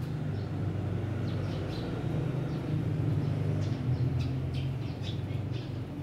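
Small birds chirping now and then, short high calls scattered through, over a steady low hum.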